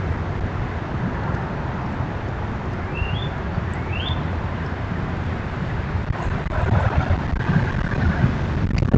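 Steady low outdoor rumble, with a bird giving two short rising calls about three and four seconds in.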